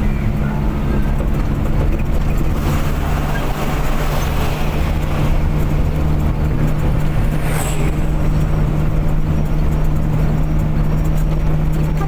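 A car under way at steady engine speed: a constant low engine drone over road noise, with a few brief passing swishes.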